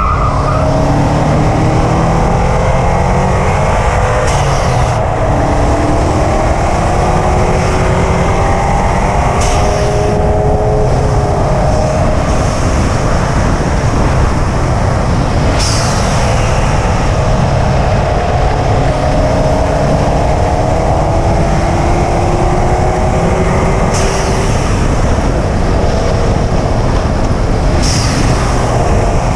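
2005 Subaru WRX wagon's turbocharged flat-four engine under way, its note rising slowly over several seconds and dropping back again and again as it pulls through the gears, over a heavy steady rumble of road and wind noise. A few brief sharp knocks come every several seconds.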